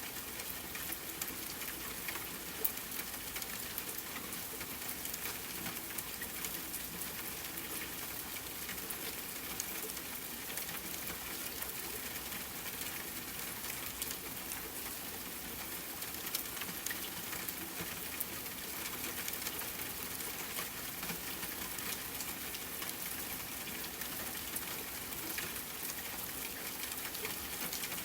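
Steady rain falling on a tent, mixed with a campfire crackling, with many small sharp pops over an even hiss.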